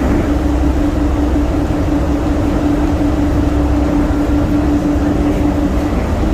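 DFW Skylink people-mover train running between stations, heard from inside the car: a steady low rumble under a steady hum that drops out briefly near the end.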